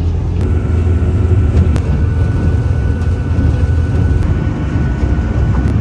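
Engine running with a steady low drone, heard while riding in the vehicle. A faint thin whine sits above it from about half a second in until near the end.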